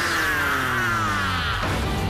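Action-show soundtrack music with a long sound effect falling in pitch over most of its length.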